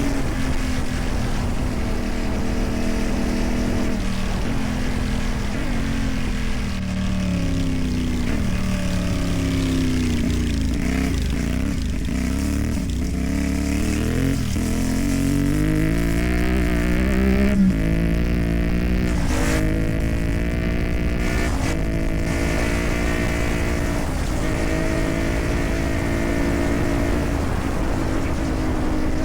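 CFMOTO 450MT's parallel-twin engine running through a modified aftermarket exhaust on a dirt ride, its revs rising and falling repeatedly with the throttle. Near the two-thirds mark the revs peak sharply, then drop suddenly.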